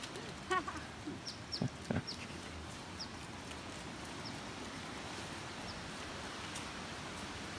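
Steady hiss of rain in a forest. A short pitched call comes about half a second in, two dull thumps follow soon after, and a scattering of brief, high, falling bird chirps runs through.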